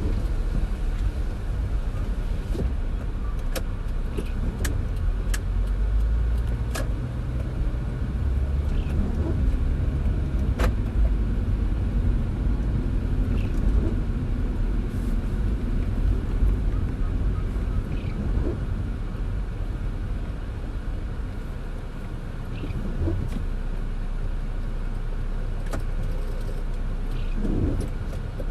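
A car driving on a wet road in the rain: a steady low rumble of engine and tyres with scattered taps and ticks, typical of raindrops striking the car.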